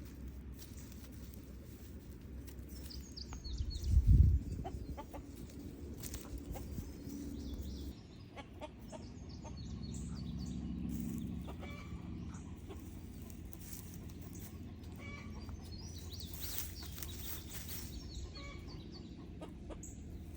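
Free-range backyard chickens clucking on and off. About four seconds in there is a loud low thump or bump.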